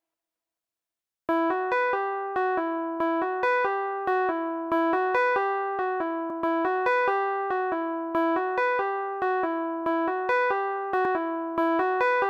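Near silence for about a second, then a repeating electric-piano-style keyboard melody from a software instrument starts. It plays short notes with sharp attacks that each die away, about three notes a second.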